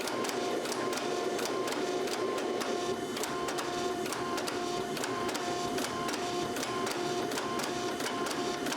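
Steady mechanical running noise with regular sharp clicks, mixed with background music of short repeating notes.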